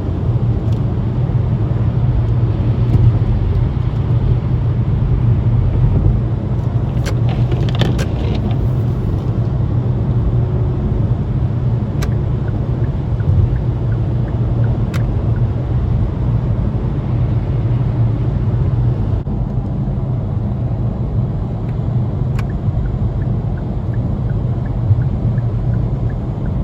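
Road noise inside a car driving on the interstate: a steady low rumble of engine and tyres, with a few faint clicks.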